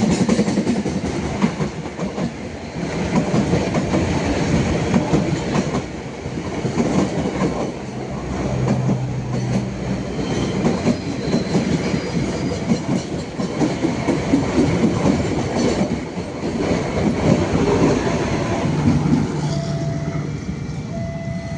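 Train passing close by at speed, its cars clattering rhythmically over the rail joints for the whole stretch.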